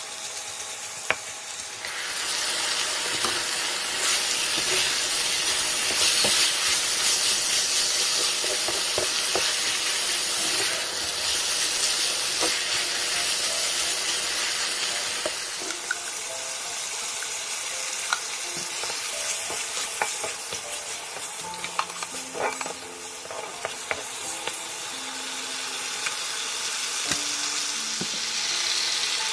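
Diced chicken thigh, onion and garlic sizzling in oil in a nonstick frying pan, stirred with a wooden spatula that scrapes and clicks against the pan now and then. The sizzle gets louder about two seconds in and eases somewhat in the second half.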